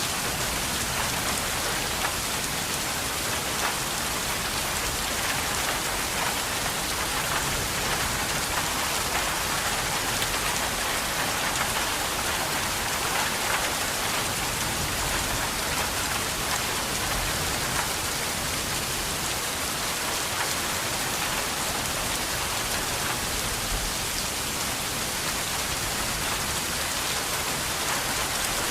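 Steady rain falling and pattering on surfaces, an even dense hiss of many drops without letup.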